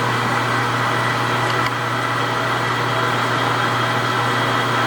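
Precision Matthews 1640 metal lathe running steadily, a constant machine hum with a low drone.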